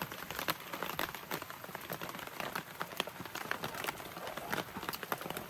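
A utensil stirring the watery ground-beef and vegetable filling in a cast iron Dutch oven, with a steady run of irregular scrapes and clicks.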